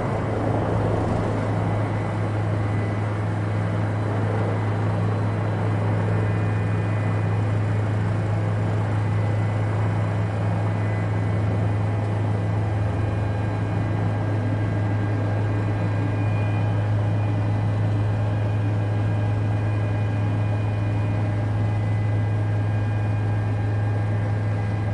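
Toy remote-control helicopter's small electric motor and rotors running steadily: a constant low hum with a faint higher whine over it.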